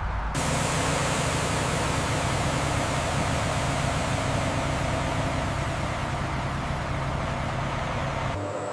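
Steady mechanical rumble with a broad rushing hiss and a low hum, starting and stopping abruptly.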